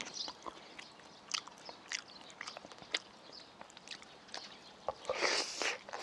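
Close-miked chewing of soft rolled omelette (gyeran-mari), with scattered sharp wet mouth clicks, and a louder burst of noise about five seconds in.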